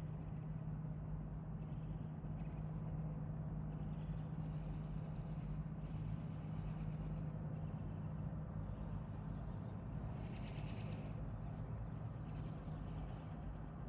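Airbus A300F4-622R twin-engine cargo jet flying past, its engines a steady, even rumble with a low droning hum. Birds chirp now and then over it, most clearly about ten seconds in.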